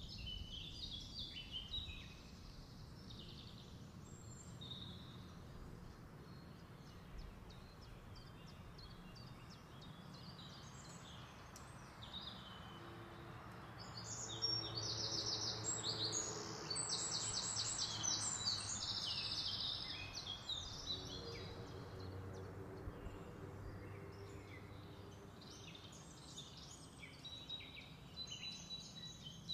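Small birds chirping on and off, with a louder, rapid trill of evenly repeated high notes lasting several seconds about halfway through.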